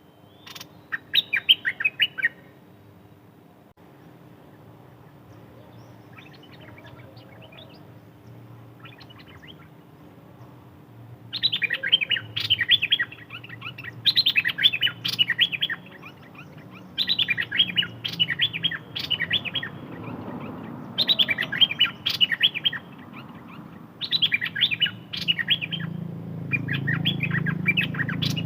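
A songbird singing short phrases of rapid, chattering notes. One loud phrase comes about a second in, then a quieter stretch, then from about halfway a phrase every two to three seconds.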